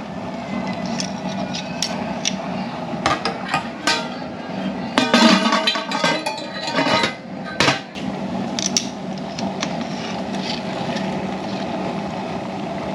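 Irregular knocks and clatter of hard objects against one another, with a busier run about five seconds in, over a steady low hum.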